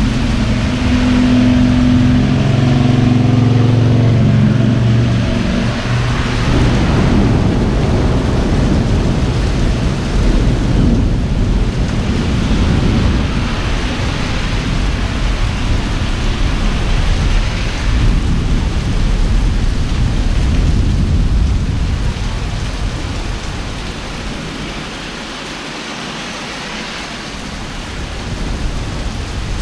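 Heavy rain pouring down in a thunderstorm, a dense steady hiss. For the first six seconds a steady low hum, like an idling engine, runs under it. The rain eases slightly near the end.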